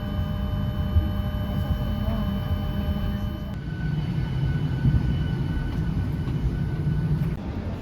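Jet airliner's steady engine and cabin noise: a low rumble with a few steady whining tones. The sound changes abruptly about three and a half seconds in to a lower, steadier hum.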